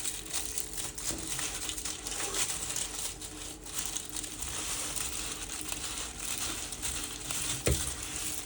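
Wrapping on a pack of firework rockets crinkling and rustling as it is opened by hand, with a brief knock near the end.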